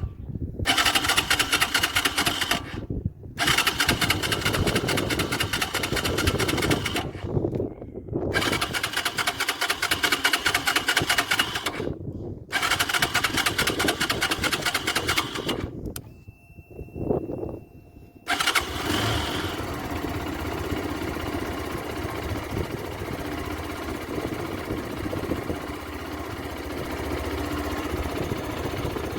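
Motorcycle electric starter turning the engine over with the kill switch on so it won't fire, in four long cranking bursts with short pauses, to churn a diesel-and-oil flush through the engine and clutch discs. In the last ten seconds a steadier, quieter running sound takes over.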